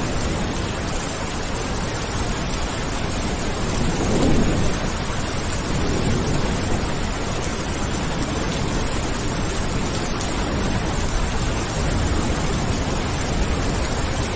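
Steady rain falling, with a low rumble of thunder swelling briefly about four seconds in.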